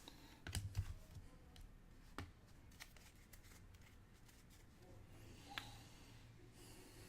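Soccer trading cards being handled and slid one over another, giving faint scattered clicks and short rustles.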